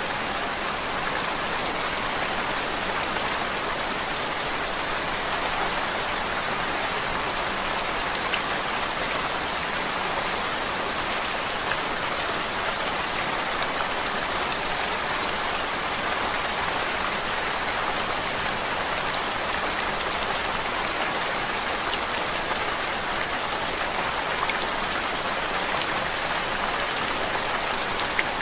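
Steady rain falling: an even, unchanging hiss with faint scattered drop ticks, used as a constant background noise track.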